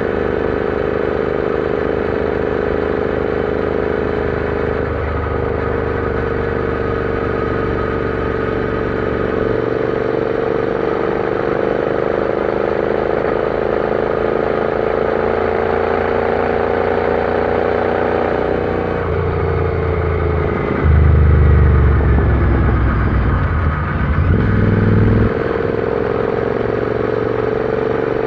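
Royal Enfield Interceptor 650's parallel-twin engine running under way, its note rising slowly as it pulls, then dropping off about two-thirds of the way through as the throttle closes. A few seconds later there is a louder, low rumble, and this happens twice.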